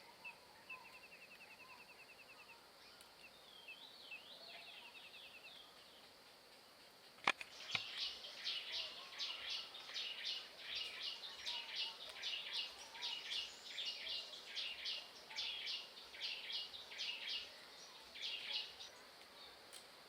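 Birds calling outdoors: a fast, high trill near the start and a few warbled notes. A single sharp click comes about seven seconds in, followed by a long run of high chirps repeating about three times a second.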